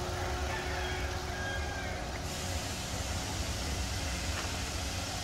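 Honda Odyssey RC1's 2.4-litre four-cylinder engine idling steadily with a low, even rumble.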